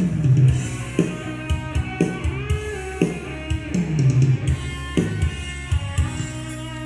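Multitrack playback of a live band: a drum kit with kick and snare hitting about once a second, bass guitar and electric guitar playing together, remixed channel by channel on a digital mixing console. The drum hits thin out near the end while the guitar keeps sounding.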